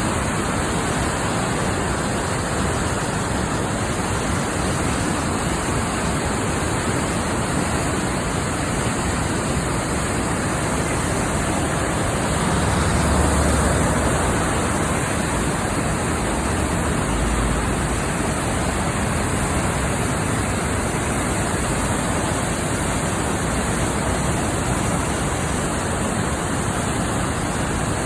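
Floodwater rushing in a steady, unbroken roar, swelling a little about halfway through, with a couple of brief low thumps.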